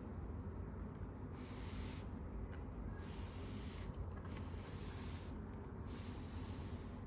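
Hair dryer running with a steady low hum, its hiss of air coming and going four times.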